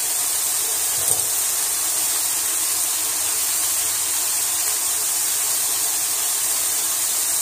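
Liver and sliced onions frying in oil in two pans: a steady sizzling hiss, with a short click about a second in.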